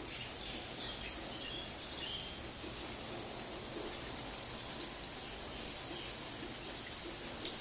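Steady rain falling on wet paving and leaves, an even hiss scattered with small drip ticks; one sharper, louder tick near the end.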